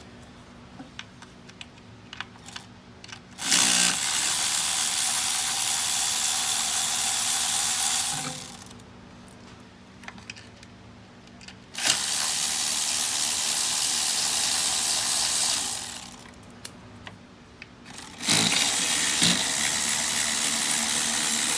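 A power tool running in three spells of about four seconds each, each one starting with a quick spin-up. Light clicks of small parts being handled come in the pauses between.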